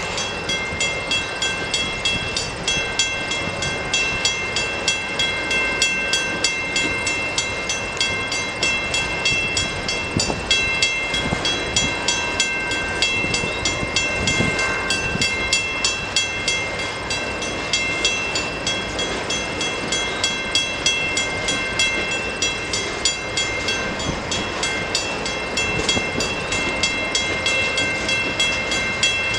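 Freight cars of a CN manifest train rolling past, with wheels clicking rhythmically over the rail joints and steady high-pitched ringing tones throughout.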